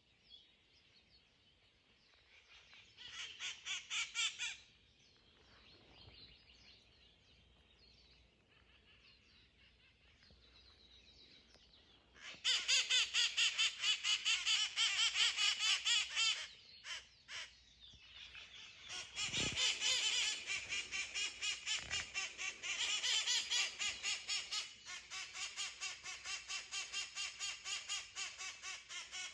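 Wild parrots calling in fast, repeated harsh notes: a short burst about three seconds in, then after a quieter stretch a loud run of calls from about twelve seconds in, resuming a few seconds later and carrying on.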